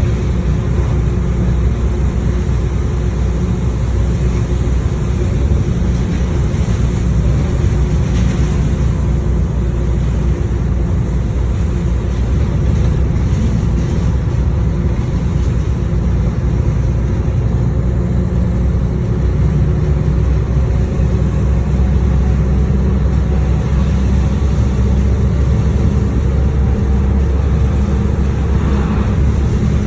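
Steady low rumble of a running vehicle, with a faint even engine hum over it.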